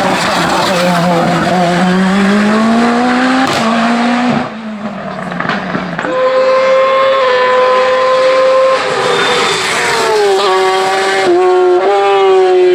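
Hillclimb race car engines at full throttle. One engine rises in pitch as it accelerates for about four seconds, then the level drops briefly. From about six seconds in, an engine holds high, steady revs, with several quick gear changes near the end.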